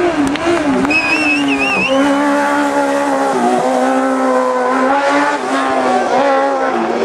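Hillclimb race car engine running hard at high revs, its pitch dipping briefly and climbing back several times as it shifts gear or lifts for corners. A short high wavering squeal sounds about a second in.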